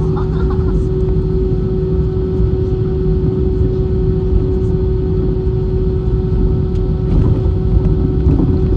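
Airbus A320 cabin noise: a steady, loud rumble of engines and airflow with a constant hum running through it, getting a little louder near the end.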